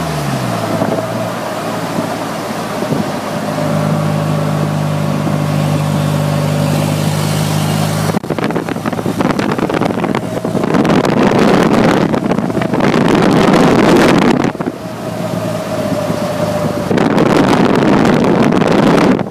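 Polaris Slingshot's engine running steadily at cruising speed on the road. From about eight seconds in, heavy wind buffeting on the microphone comes in gusts and largely drowns the engine.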